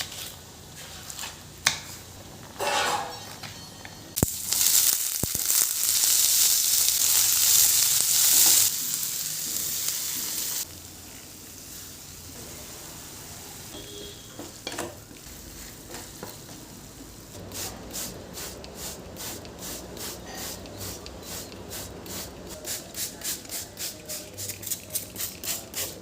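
Food frying in a hot pan: a loud sizzle starts suddenly about four seconds in, as something goes into the oil, and drops to a quieter sizzle about ten seconds in. In the last third, a run of rhythmic strokes in the pan gets faster towards the end.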